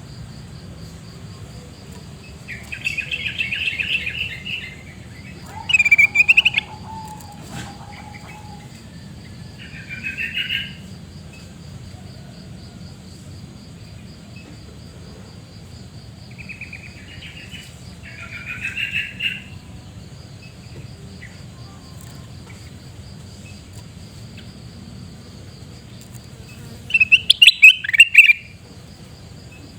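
A kutilang emas bulbul calling in short bouts of quick chattering notes, with pauses of a few seconds between them. The last bout, near the end, is the loudest. A steady high insect drone runs underneath.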